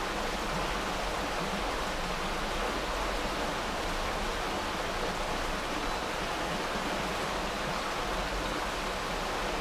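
Steady rushing of flowing creek water, an even hiss that holds without change.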